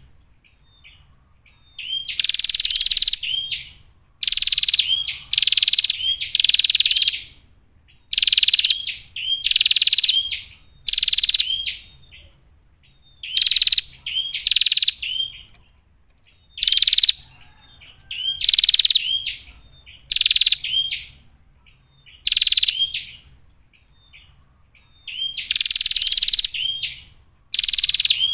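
Female prinia (prenjak) calling: loud, buzzy chattering bursts of about a second each, coming singly or two or three in quick succession, with short pauses between the runs.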